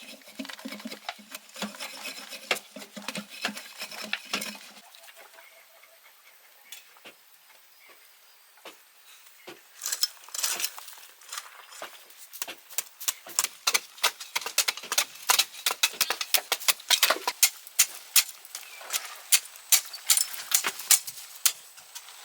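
An irregular run of sharp taps and clicks, sparse at first and dense over the last dozen seconds, with a low cooing sound during the first few seconds.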